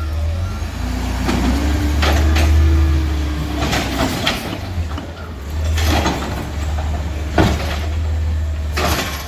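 Garbage truck engine running at a steady low rumble. About a second in, a whine rises and holds for a couple of seconds. Several short, sharp clanks or hisses come at intervals.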